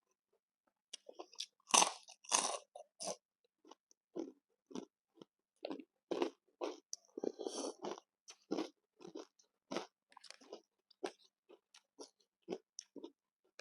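A person biting into and chewing crunchy food, with the loudest crunches a couple of seconds in, then a run of irregular chewing crunches.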